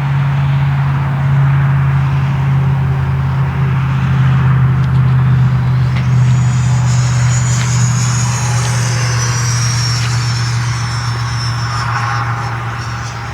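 A 90 mm electric ducted fan model F-16 jet running at power. Its high fan whine comes in about halfway through and slides down in pitch, over a steady low rumble.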